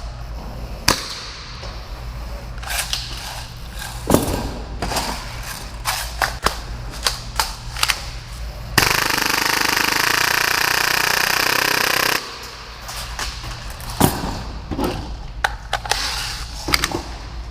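Full-auto Tokyo Marui Hi-Capa airsoft pistol, firing at about 30 rounds per second, lets off one continuous burst of a little over three seconds near the middle. Scattered sharp clicks and knocks come before and after it.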